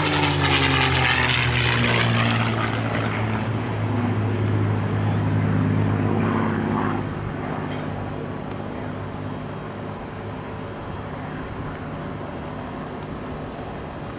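Low flyby of a piston-engined World War II warbird. The propeller engine drone falls in pitch as the plane passes, stays loud for about seven seconds, then fades to a fainter drone.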